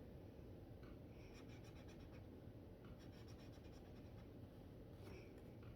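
Faint scratching of a felt-tip brush pen stroking across paper while colouring, in a few short runs of quick strokes.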